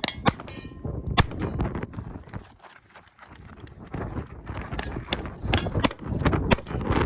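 Gunshots fired at a shooting range: a few single shots, two in the first second or so and a quick cluster near the end, heard over heavy wind buffeting the microphone.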